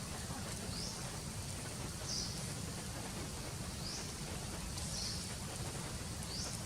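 Outdoor ambience: a short rising high-pitched animal call repeats five times, about every second or so, over a steady low rush and a high hiss.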